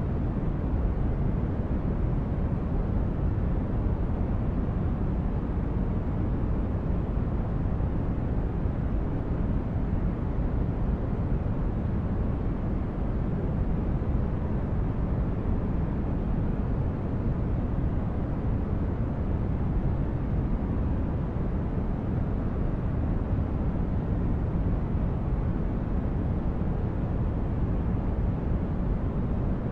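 Steady sleep-aid noise track: an even, unbroken rushing noise weighted heavily toward the low end, a deep rumble with little treble and no changes.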